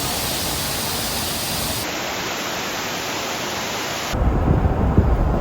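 Rushing water of a waterfall, a steady even hiss. About four seconds in it gives way to a lower, uneven rumble.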